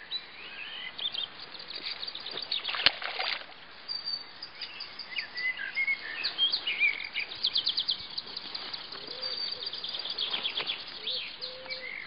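Songbirds singing and chirping, with fast high trills, over a faint outdoor background. A single sharp click about three seconds in.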